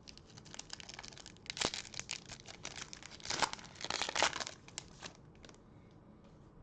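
A trading-card pack's foil wrapper crinkling and tearing as the pack is opened, with louder crackles a couple of times before it settles near the end.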